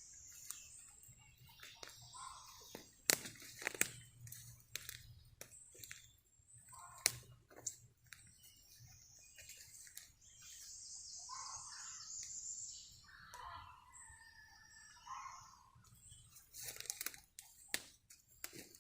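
Footsteps through woodland undergrowth, with scattered sharp cracks of twigs snapping underfoot. Faint bird chirps come and go.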